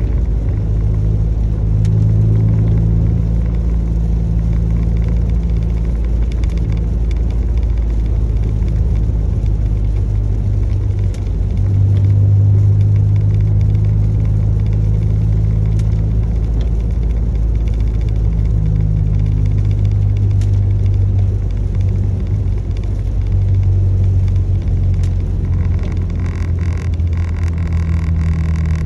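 Steady low rumble and hum of a running engine, swelling and easing every few seconds, with a faint hiss above it.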